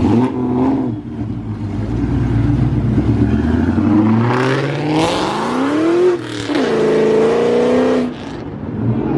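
Ford Mustang SVT Cobra "Terminator" with its supercharged V8 accelerating hard. The engine runs steadily at first, then the revs climb for about three seconds. They drop at a gear change about six seconds in, climb again, and fall away suddenly as the driver lifts off near the end.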